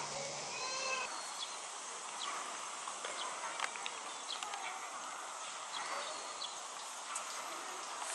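Outdoor ambience: a voice trails off in the first second, then scattered short, high chirps and faint clicks over a steady hiss.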